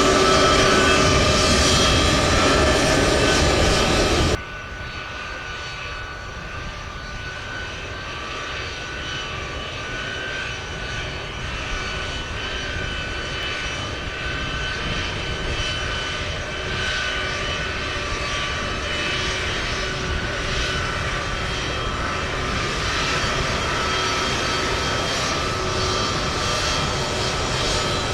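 Jet airliner engines with a steady whine, loud at first and cut off suddenly about four seconds in. A quieter jet engine sound follows and slowly grows louder as another aircraft comes nearer.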